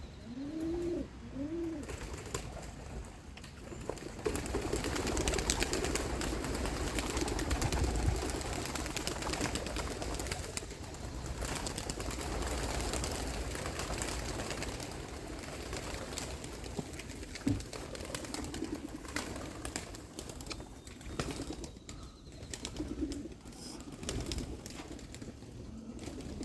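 Domestic pigeons cooing: short arched coos near the start and again later. Through the middle there is a long stretch of rustling with many scattered taps.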